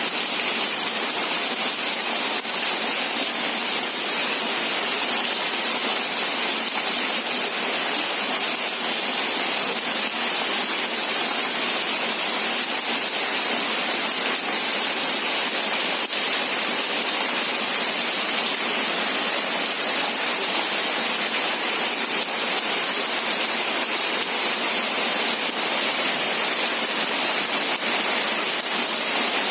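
Steady, even rain hiss, dense and unbroken, with no individual drops or thunder standing out.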